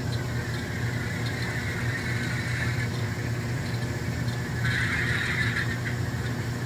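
Alco diesel locomotive sound from an N scale model's sound decoder, played through its small onboard speaker as the engines are fired up: a steady low engine rumble with a higher whine that drifts down over the first few seconds, then a brighter hissing sound a little under five seconds in.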